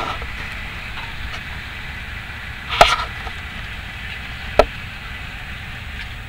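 Thalys high-speed train running at speed, heard from inside the carriage: a steady rumble and rush of wheels and air. A loud cluster of knocks comes about three seconds in, and a single sharp knock under two seconds later.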